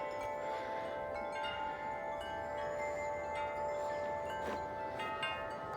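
A set of large tuned tubular wind chimes blown by the wind: the tubes are struck again and again, their tones overlapping in a steady, ringing chord.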